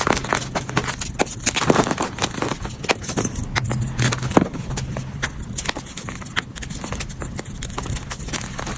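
Gym chalk being crushed and crumbled, a dense, irregular run of crunchy crackles and snaps.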